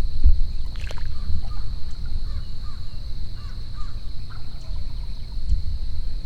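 Wild birds calling in the woods, scattered short calls with one harsher call about a second in, over a low rumble of wind on the microphone and a steady high whine.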